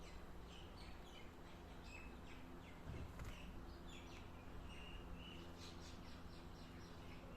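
Faint chirping of small birds: many short, quick chirps, some in rapid runs, over a steady low hum. A brief dull thump about three seconds in.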